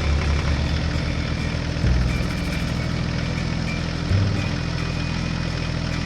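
Tractor engine idling steadily, its low note shifting to a new level about two seconds in and again about four seconds in.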